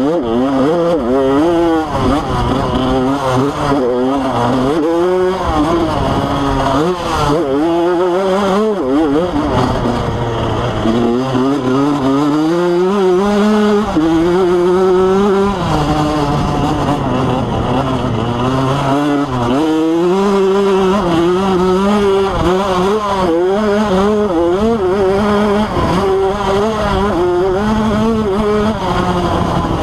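Motocross bike engine revving hard, its pitch climbing and falling again and again as it accelerates, shifts and backs off around the track.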